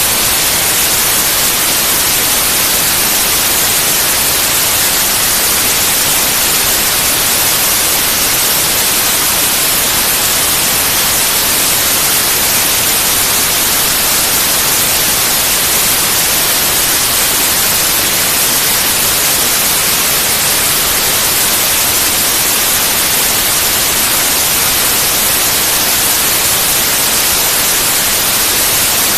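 Synthetic white noise: a loud, steady hiss, even across the whole range and brightest in the treble, with no change.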